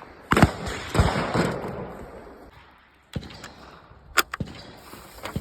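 Two gunshots about two-thirds of a second apart, each with an echoing tail, followed by a few lighter clicks and knocks.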